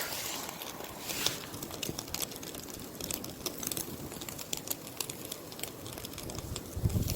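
Small wood campfire crackling, with irregular sharp pops and ticks.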